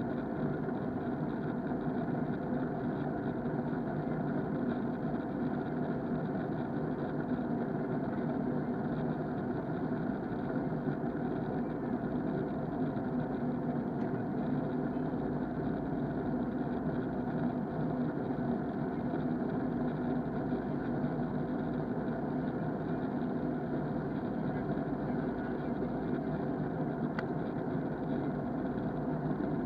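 Steady cabin drone of an Airbus A321 in flight: its IAE engines and the airflow, heard from a rear window seat. The sound is dull and muffled, recorded through an action camera's case.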